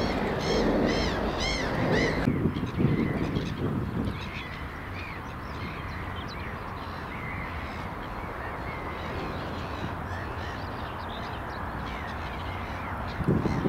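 A bird calling in a quick series of short, repeated calls over outdoor background noise for about the first two seconds. Then quieter outdoor ambience with scattered small-bird chirps, and a louder burst of noise near the end.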